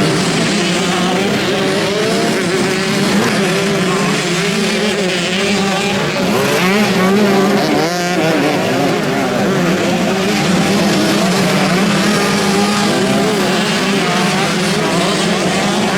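Several motocross bikes racing, their engines revving up and down with many pitches overlapping, over a steady low drone.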